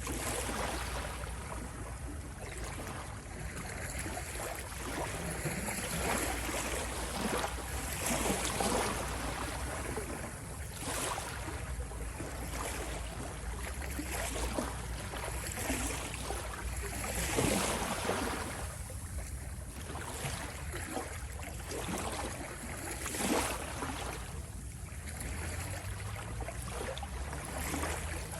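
Sea waves washing in: a continuous rush of water that swells with louder surges every few seconds.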